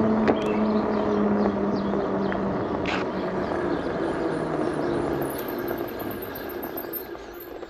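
Electric bike riding along a trail: steady rolling and wind noise with a hum that slides lower in pitch and fades in the second half, as the bike slows. Small birds chirp faintly in the background.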